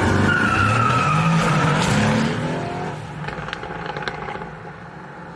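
A high-performance car's engine revving hard with its tyres squealing, loud for the first two and a half seconds and then fading away.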